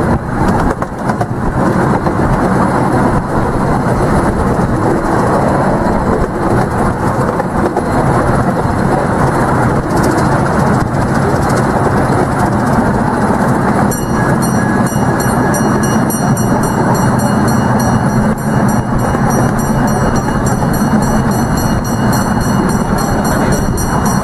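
Steady running noise of a miniature park-railway train, heard from an open passenger carriage: steel wheels rolling on the rails at an even pace.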